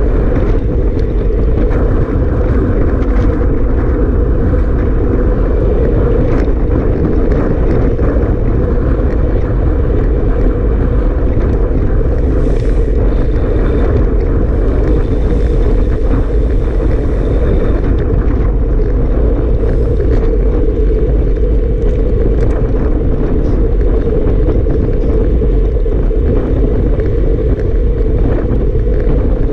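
Strong wind buffeting the microphone: a loud, steady rushing rumble.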